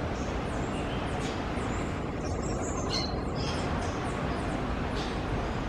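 Birds calling with short, high, downward chirps over a steady background rumble.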